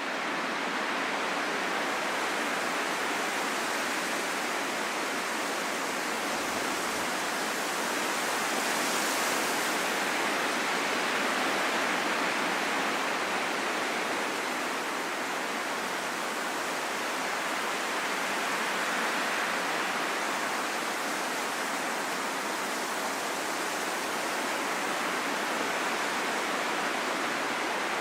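Calm wind, a steady even rush with slow, gentle swells in strength and no howling tones.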